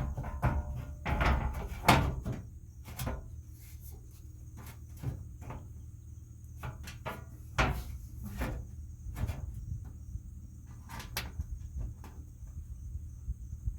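Hand work on a truck door: irregular clicks, knocks and clatter of metal parts and tools being handled. The handling is busiest in the first two seconds, then single knocks follow every second or so over a steady low hum.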